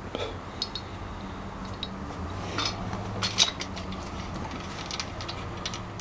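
Scattered light metallic clinks and taps of engine parts being handled, with a cluster about two and a half to three and a half seconds in: steel main bearing caps being set in place over the crankshaft of a small-block Chevy. A steady low hum runs underneath.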